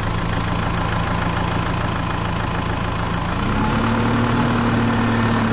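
Diesel tractor engine running steadily; its pitch steps up a little about three and a half seconds in.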